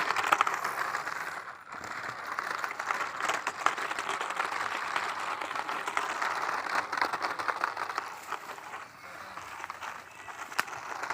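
Toy trucks rolling over rough ground, their small wheels giving a continuous dense rattle and crackle.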